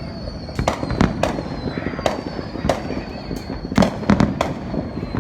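Fireworks going off: an irregular run of sharp bangs, about two a second, over a steady background din.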